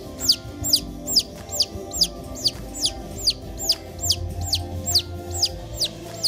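A rapid, evenly spaced series of short, high-pitched chirps, each falling in pitch, about two and a half a second, over background music.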